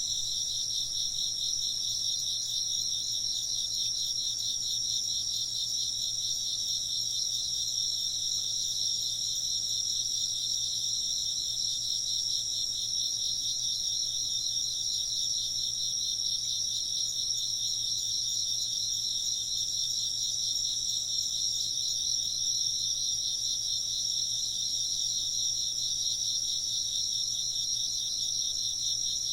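A chorus of insects calling nonstop, a steady high trilling at two pitches, one a little above the other, with no pauses and no wind chime heard.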